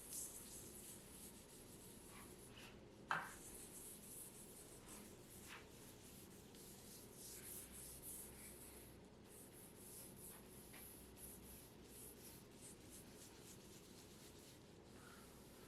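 Faint, irregular rubbing and scratching on a surface, with one sharp click about three seconds in.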